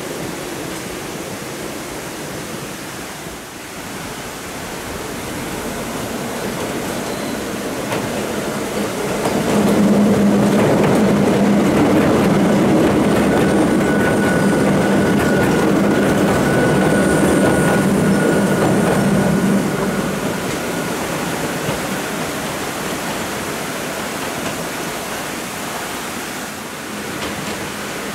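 Hakone Tozan Railway electric trains running on the mountain line. It is loudest from about ten to twenty seconds in, as a two-car train with a blue-and-yellow 100-series car crosses a steel girder bridge close by, with a steady low hum and a faint steady high tone over the rumble.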